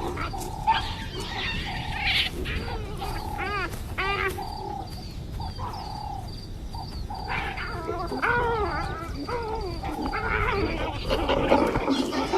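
Wild animals calling: a run of short pitched calls, some rising and falling in arcs, with a quieter gap in the middle and the calls thickening again near the end, over a steady low rumble.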